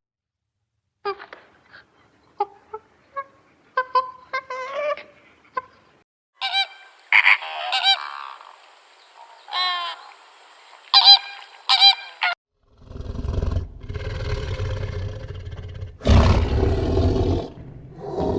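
Geese honking in loud, repeated calls through the middle of the stretch, preceded by a run of short, softer bird calls. A deep, low sustained sound takes over for the last five seconds or so.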